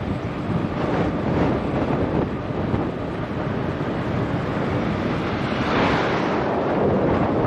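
Wind buffeting the microphone: a steady rushing, rumbling noise that swells and eases, a little louder near the end.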